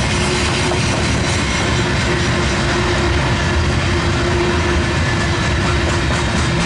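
Loaded Herzog ballast hopper cars of a freight train rolling past, a steady rumble of steel wheels on rail with a thin steady tone above it.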